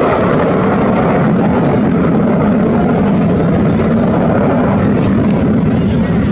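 Aircraft flying past, its engine noise loud and steady.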